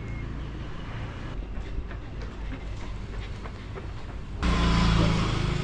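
Street traffic: a motor vehicle engine running low and steady, then a louder vehicle engine starting up suddenly close by about four and a half seconds in.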